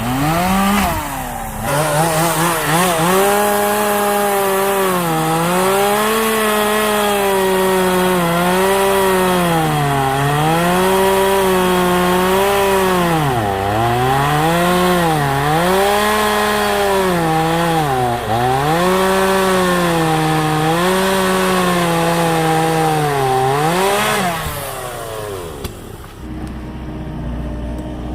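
Two-stroke engine chainsaw cutting wood at high revs, its pitch dipping and recovering about every one and a half seconds as the chain bites into the log under load. Near the end the engine winds down.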